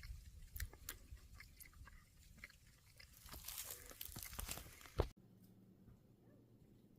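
Footsteps crunching and clicking on a rocky trail, irregular and faint, ending with a sharp click about five seconds in, after which the sound drops away abruptly.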